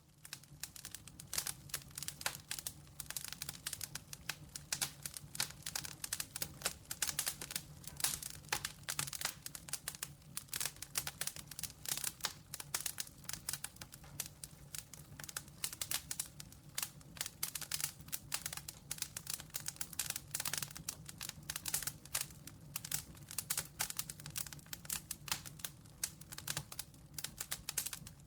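Campfire crackling: a dense, unbroken run of sharp pops and snaps from burning wood, with a low steady hum underneath.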